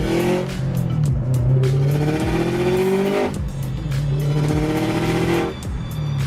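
Modified Subaru WRX STI's turbocharged flat-four, with full exhaust and external wastegate, accelerating hard through the gears. The revs climb, then drop at a shift about three seconds in, climb again and drop at another shift near the end.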